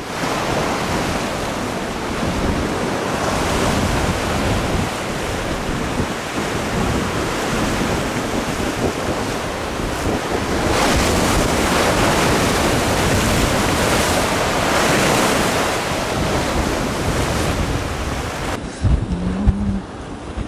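Waves surging and breaking against coastal sea rocks, with strong wind buffeting the microphone; the surf swells up in long surges. Near the end the sound cuts to a duller, quieter take with wind thumps and a short low hum.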